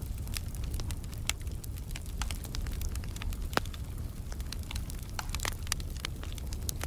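Fire in a fireplace crackling, with frequent sharp pops and snaps over a steady low rumble of the flames. There is a louder pop about halfway through.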